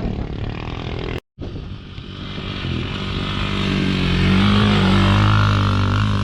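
KTM 990 Adventure's LC8 V-twin engine running under way, the sound cutting out abruptly for a split second about a second in; then the revs rise and hold at a steady, higher engine note.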